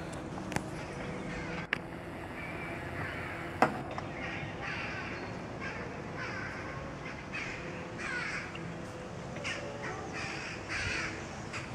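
Birds calling over and over in short calls, starting about four seconds in. A few sharp clicks come in the first seconds, the loudest a little before the calls begin.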